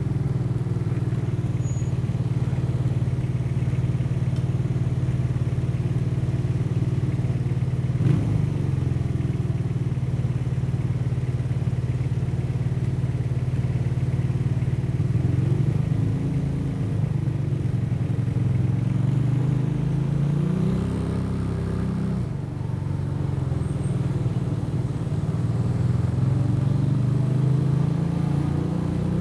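Motorcycle engine running at a steady cruising pace, heard from the rider's seat. In the second half the engine note rises and falls several times as the throttle opens and closes, with a brief drop about two-thirds of the way through. There is one short knock about eight seconds in.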